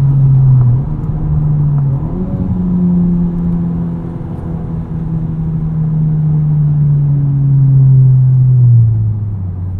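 Turbocharged 2.0 L four-cylinder of a 2021 Honda Civic Type R with an Invidia exhaust and Takeda intake, heard from inside the cabin as the car slows. The revs jump up about two seconds in, as in a downshift, then sink slowly under engine braking and drop further near the end.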